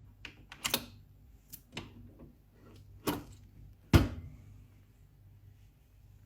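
Sharp clicks and knocks of a capsule coffee machine being handled, about half a dozen in all, the loudest a heavy thump about four seconds in.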